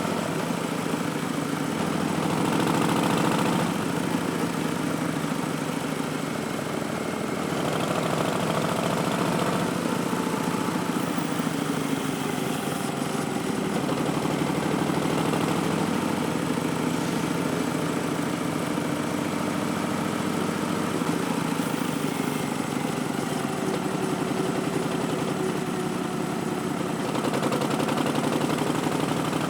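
A 2019 Harley-Davidson Street Bob's Milwaukee-Eight V-twin running through Vance & Hines Twin Slash slip-on mufflers, the revs rising and falling several times with the throttle.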